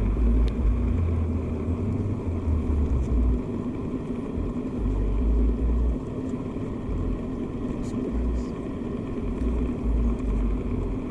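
Outdoor background with a low, uneven rumble that swells and fades, and faint voices in the background.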